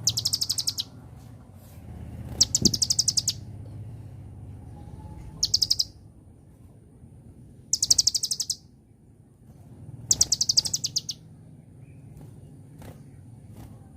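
Kolibri ninja (konin) sunbird singing: five short, high, fast-pulsed trills, each under a second long, spaced about two to three seconds apart.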